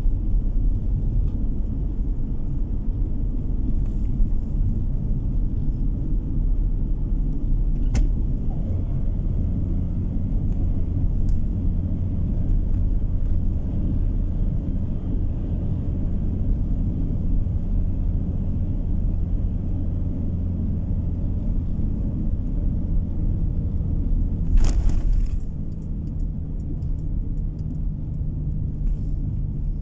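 Car driving along a road: steady low rumble of engine and tyre road noise, heard from inside the car. Near the end a brief loud rush of noise, after which the rumble settles a little quieter.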